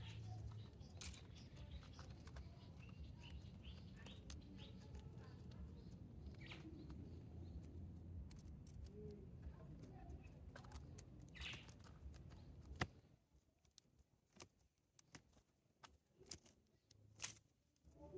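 Small birds, likely sparrows, chirping faintly in short scattered calls over a low background rumble. About two-thirds of the way through comes one sharp click, the rumble drops away, and only scattered light clicks and taps are left.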